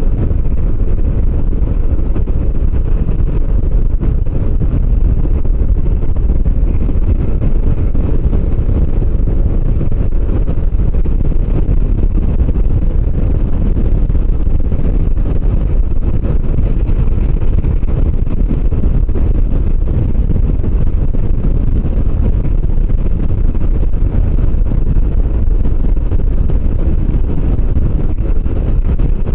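Motorcycle riding at a steady road speed: wind rushing over the microphone, with the engine running evenly underneath.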